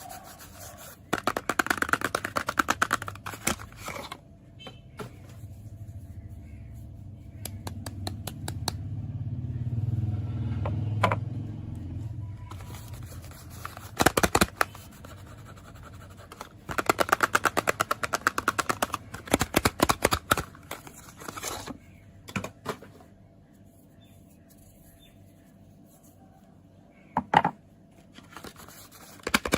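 Fast tapping on soap packaging in several quick bursts of clicks, with a low rumble of the packaging being handled swelling through the middle.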